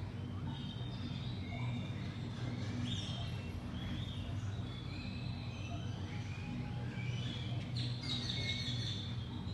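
Small birds chirping in short, repeated calls over a steady low hum, with a burst of calls about eight seconds in.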